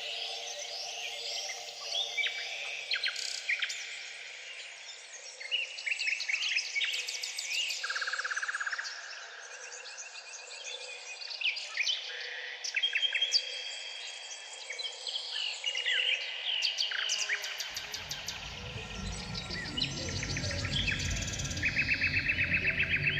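Many songbirds singing at once: overlapping chirps, whistles and a few rapid trills, over a steady low hum. About three-quarters of the way through, a low steady noise joins them.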